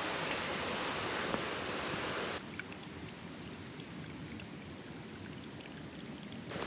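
Creek water rushing, loud for about two seconds and then cutting abruptly to a fainter, steady rush with a few light ticks.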